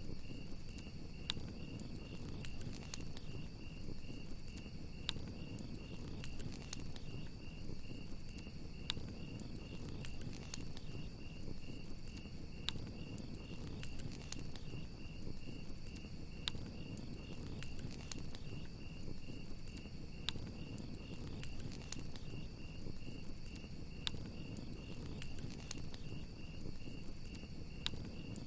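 Crickets chirping in a steady, fast-pulsing trill over a crackling campfire, with sharp pops every few seconds and a steady low rumble of the flames.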